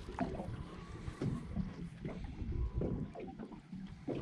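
Small waves slapping and lapping irregularly against the hull of a small fishing boat, with wind gusting in the background.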